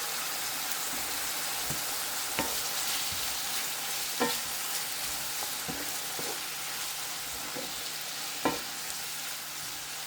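Oyster mushrooms and onions sizzling in hot oil in a pan, with a steady hiss, while being stirred, with several sharp knocks of the utensil against the pan, the loudest about four and eight seconds in.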